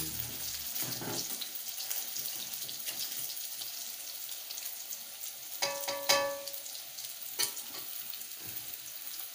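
Noodles and egg sizzling as they fry in a wok, with clicks and scrapes of a spatula stirring them. A short pitched tone sounds about six seconds in.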